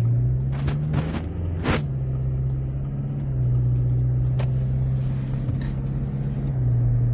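Car engine and road noise heard from inside the cabin while driving: a steady low hum whose pitch shifts a little a few times, with a few short knocks about a second in.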